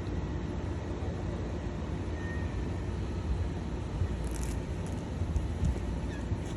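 Steady low rumble of background noise, with a faint short chirp about two seconds in and a few light clicks around four seconds in.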